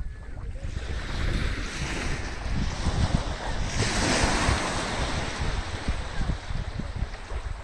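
Sea waves washing onto a beach, one wave surging in with a swell of hiss that peaks about four seconds in and fades, while wind buffets the microphone with low rumbling gusts.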